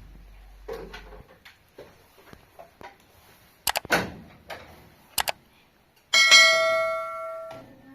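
A few sharp knocks, then about six seconds in a loud metallic ring from something struck, with several clashing tones, dying away for about a second and a half before it is cut short.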